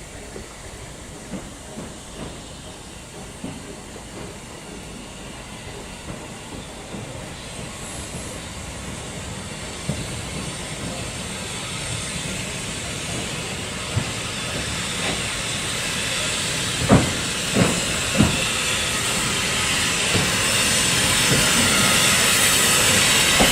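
Steam locomotive drawing near, its steam hiss growing steadily louder, with scattered knocks and three sharp ones about three-quarters of the way through.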